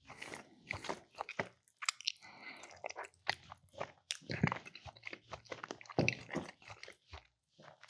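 A person chewing and biting food up close, with irregular wet smacks and crunchy bites, the strongest about four and a half and six seconds in.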